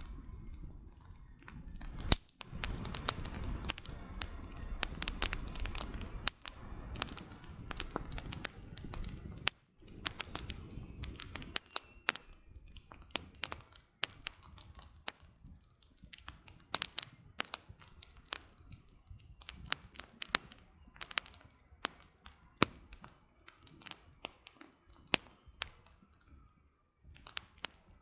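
Campfire crackling: burning firewood gives off irregular sharp snaps and pops throughout. For the first several seconds a low rushing noise lies under the crackles, then it drops away and leaves scattered pops.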